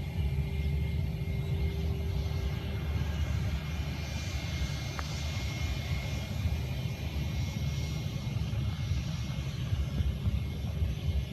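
An airliner's engines giving a steady low rumble, with a faint whine higher up that fades after a few seconds.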